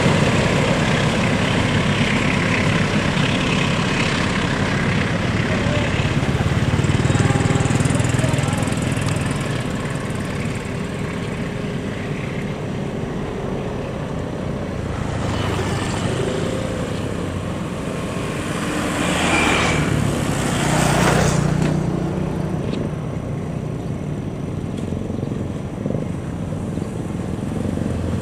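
A passenger train's coaches rolling past on the rails and fading as the train draws away. Motorcycle and road-traffic noise fills in behind it, swelling twice about two-thirds of the way through.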